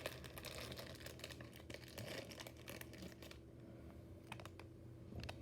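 Faint crinkling of a plastic bag and small clicks as diecast motorcycle models are handled, dense for about three seconds, then only a few scattered clicks.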